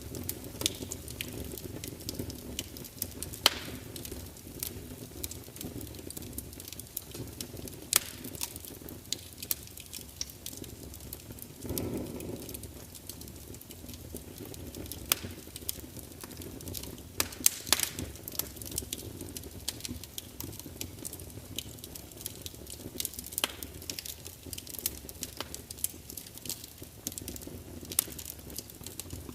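Wood fire burning in a large fireplace: a steady low rumble of flames with frequent sharp crackles and pops from the burning logs, and a brief low whoosh of flame about twelve seconds in.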